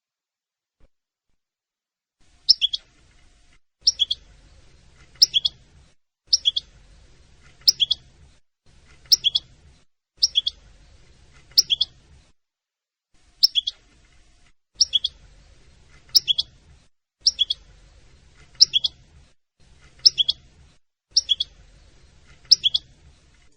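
A small bird repeating a single short, high chirp about every second and a half, starting a couple of seconds in, over a faint low hum.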